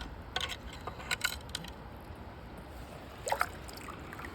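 A few light, sharp clicks and knocks over a steady low rumble of water and wind: handling noise, in a cluster about half a second to a second and a half in and again just past three seconds.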